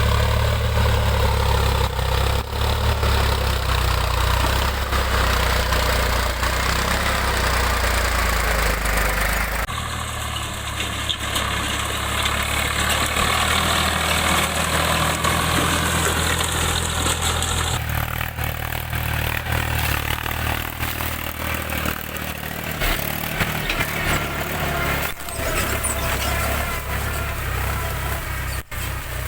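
Diesel tractor engines running, heard in several spliced clips. The engine sound changes abruptly about ten seconds in, again near eighteen seconds, and once more just before the end.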